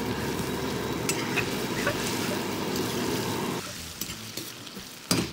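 Gram-flour-coated cauliflower florets frying in hot ghee in a steel kadai, a dense sizzle with fine crackles. About three and a half seconds in, the sizzle falls away abruptly to a quieter level. Near the end there is a single sharp knock.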